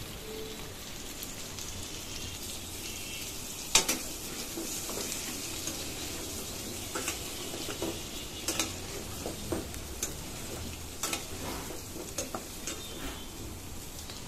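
Potato chunks frying in oil and spice paste in a steel kadai: a steady sizzle, with a metal spatula scraping and knocking against the pan every second or two as they are stirred. The sharpest knock comes about four seconds in.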